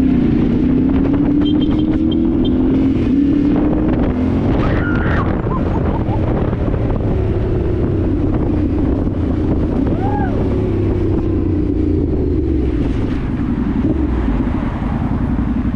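Dirt bike engine running under way, its pitch slowly rising and easing off with the throttle, with wind buffeting the microphone.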